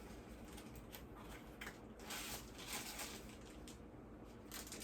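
Soft rustling and scraping of an earbuds box's packaging being handled and opened, in several short scuffs.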